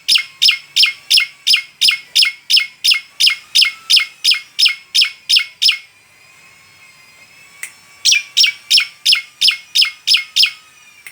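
Asian pied starling (jalak suren) calling: a fast, even series of identical sharp notes, about four or five a second, breaking off for about two seconds past the middle and then starting again.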